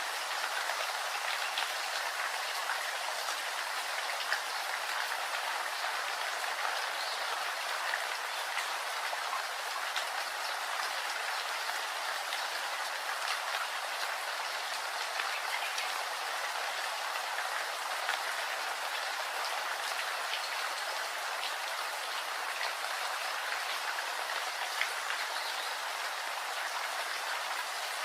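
Steady rainfall, an even hiss of rain with many individual drops ticking on a surface, unchanging throughout.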